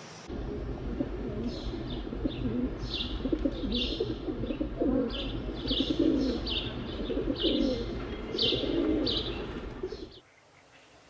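Birds calling: a run of repeated low calls mixed with short high chirps, starting abruptly just after the opening and cutting off about a second before the end.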